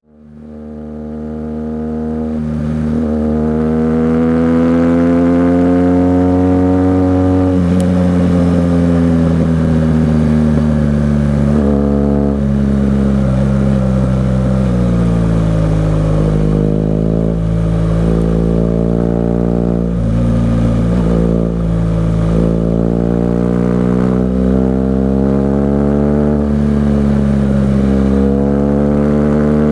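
BMW R 1200 GS Adventure's boxer twin running through an aftermarket SC-Project exhaust while being ridden. The engine note climbs as it pulls and drops back at gear changes and lifts of the throttle, several times. It fades in over the first few seconds.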